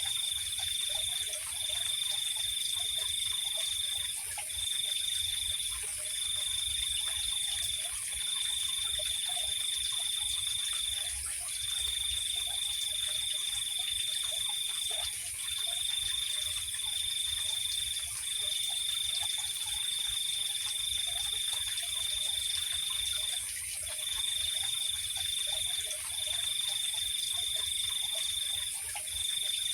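Night insect chorus: a cricket trills on one high pitch in stretches of one to three seconds with short breaks, over a steady, higher-pitched insect hum.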